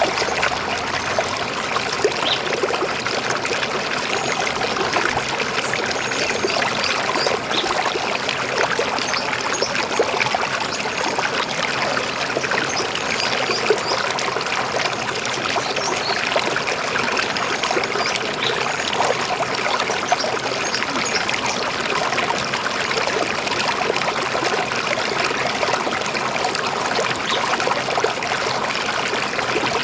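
River water flowing, a steady even rush with many small splashes through it.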